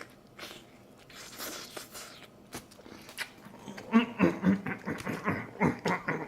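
A man chewing a mouthful of chicken burger, with wet mouth clicks and crunches that get busier in the second half. There is a faint breathy hiss about a second and a half in.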